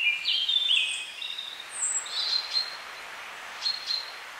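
A small songbird singing: a run of clear whistled notes that step up and down, then a thin high note and a few short chirps, over faint steady forest hiss.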